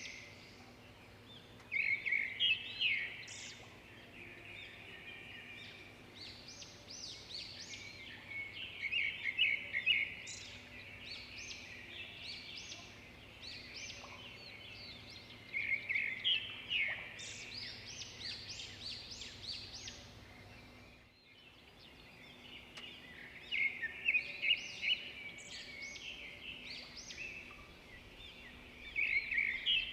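Songbirds singing, bursts of high, quick chirping phrases every several seconds over a steady faint background hiss.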